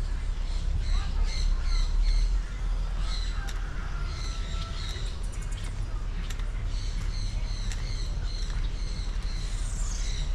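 Birds calling in series of short, high chirps repeated several times a second, with a brief pause partway through, over a steady low rumble.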